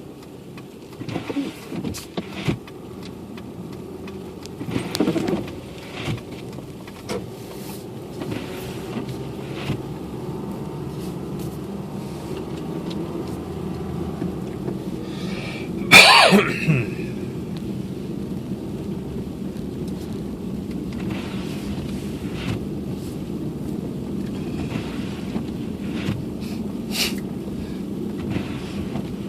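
Car interior noise while driving: a steady low rumble of engine and tyres that grows louder over the first several seconds as the car gathers speed. Scattered clicks and knocks run through it, and one loud, sharp sound comes about halfway through.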